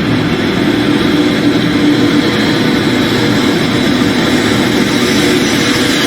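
Shinkansen high-speed train running, a steady, even rush of noise.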